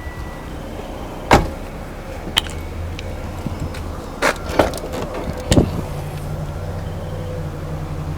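Several sharp knocks and clunks of the car's interior parts being handled, the loudest about a second in, over a steady low hum in the car that grows louder after about six seconds.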